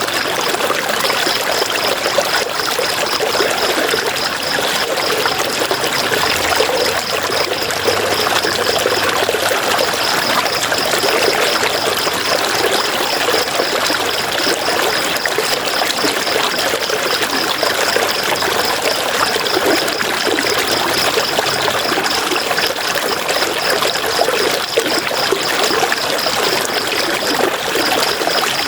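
River water flowing and trickling in a steady rush. A high, rapidly pulsing tone runs over it and drops out briefly twice.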